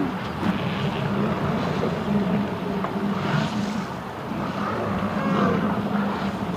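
A steady low motor drone under a haze of wind and water noise.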